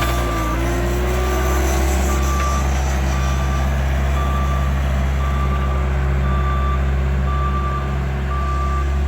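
Bobcat loader running steadily while it backs up, its reversing alarm beeping about once a second over the engine drone.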